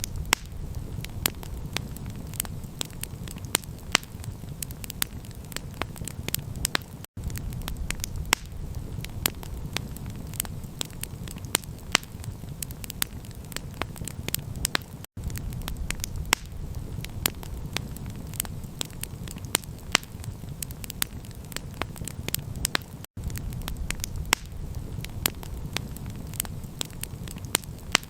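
Campfire burning, with frequent sharp crackles and pops over a steady low rush. The sound cuts out for an instant about every eight seconds.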